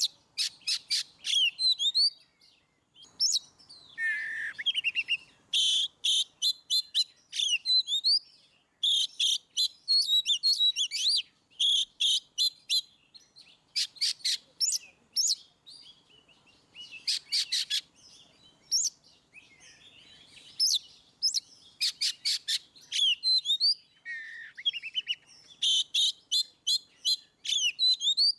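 Oriental magpie-robin (kacer) singing a loud, varied song in the full 'ngeplong' style prized by bird-keepers: fast runs of sharp repeated notes mixed with whistled slurs, in phrases broken by short pauses.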